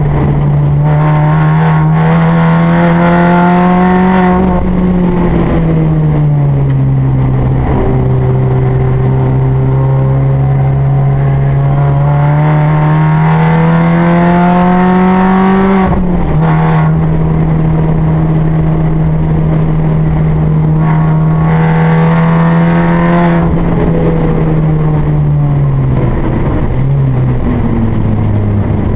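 Mini's engine running hard on track, its pitch climbing as it accelerates, dropping sharply at gear changes about four and sixteen seconds in, and falling away near the end as it slows.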